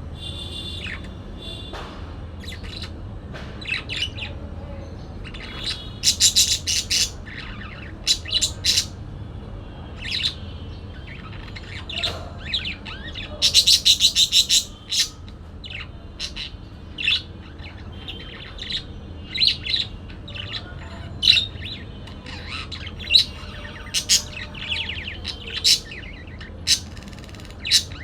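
Parakeet chirping in many short, sharp calls, with two quick rattling runs of notes, about six seconds in and again around thirteen to fourteen seconds in. A faint steady low hum lies underneath.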